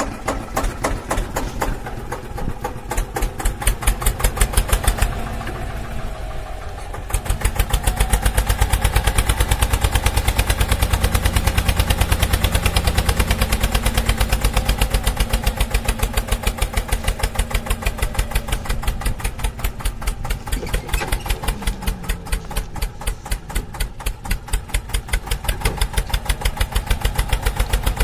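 The small engine of a homemade mini tractor running with a fast, even chugging beat. It eases off about five seconds in, then picks up and runs steadily and louder from about seven seconds on.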